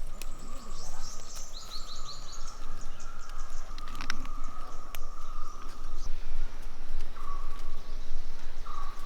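Outdoor rural ambience: a bird's run of quick high chirps in the first couple of seconds, over a steady high hum, likely insects, that cuts out about six seconds in and returns twice briefly, with scattered small clicks.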